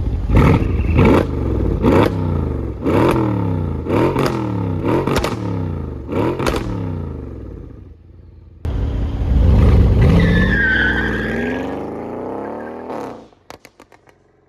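Mercedes-AMG CLS 63 V8 revving in about eight quick blips, each rising and falling. After a short dip comes a longer stretch of high revs that fades away, and then a few exhaust pops and crackles near the end.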